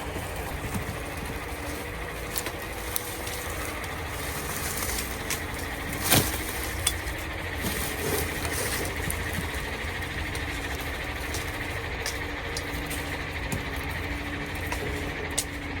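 A motor engine running steadily, with a few faint clicks and one sharp knock about six seconds in.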